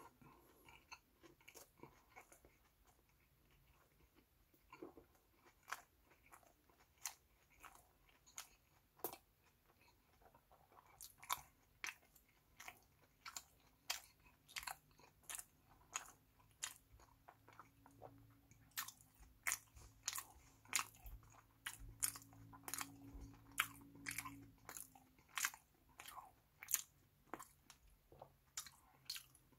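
Close-miked chewing of a mouthful of fast-food hamburger, with crisp crunches and wet mouth clicks. The crunches are sparse at first and come about twice a second from roughly a third of the way in.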